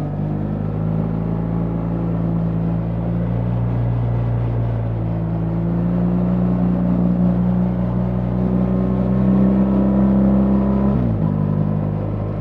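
BMW R 1300 GS boxer-twin engine running under way, its note climbing slowly as the bike gathers speed, then dropping abruptly near the end as it shifts up a gear.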